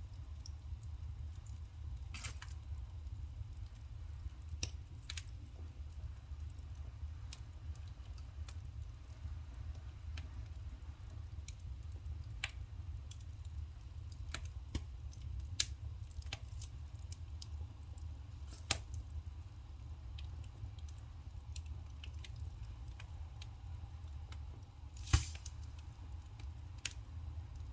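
Firewood burning, crackling with irregular sharp pops and one loud pop near the end, over a steady low rumble.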